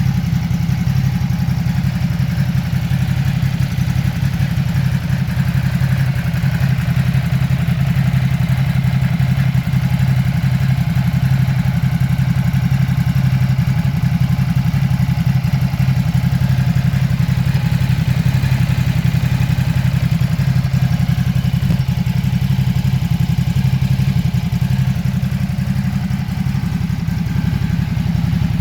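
Ducati Supersport S's 937cc L-twin engine idling steadily through its exhaust.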